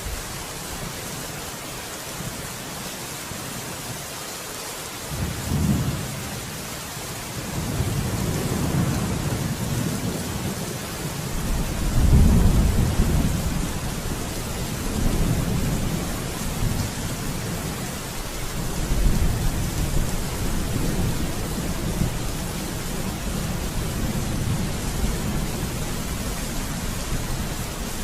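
Steady rain falling during a thunderstorm, with rolling thunder: a first rumble about five seconds in, building to the loudest peal around twelve seconds, then rumbling on in waves.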